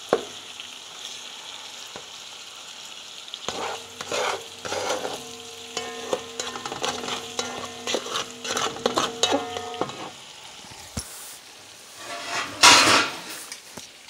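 Spicy Italian sausage and sliced smoked sausage sizzling as they brown in a skillet, with a spatula stirring and scraping through the pieces in a run of short strokes. A louder stirring push comes near the end.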